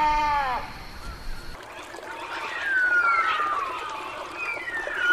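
A single nasal, honking bird call fades out in the first half second. After a sudden cut, several birds give high whistled calls, most of them falling in pitch, over a light outdoor background.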